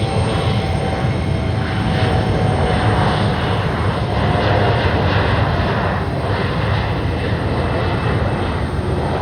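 Jet airliner's turbofan engines running at high power, a steady loud low rumble with a hiss above it, as on a takeoff.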